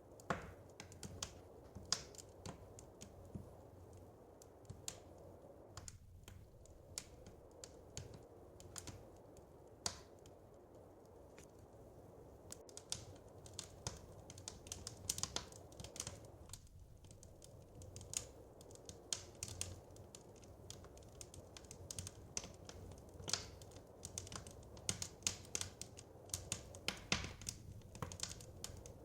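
Wood fire crackling: irregular sharp pops and snaps over a low steady rumble, the snaps coming more thickly in the second half.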